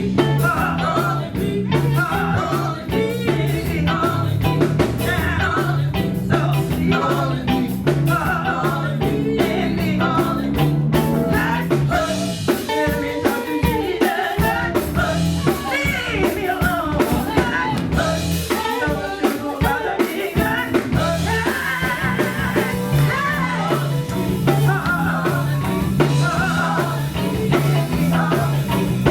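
Live gospel band playing: a vocal line over drums, a stepping bass line and guitar.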